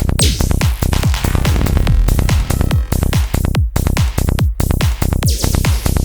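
Psytrance track with a fast, driving kick and bass pulse under layered synth effects, with a sweeping synth effect near the end.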